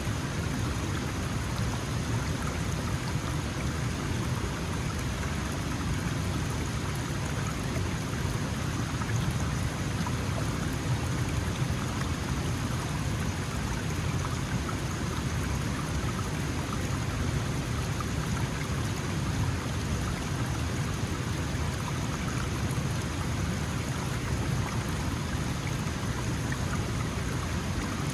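Small mountain stream flowing, a steady splashing burble of water over stones with no change in level.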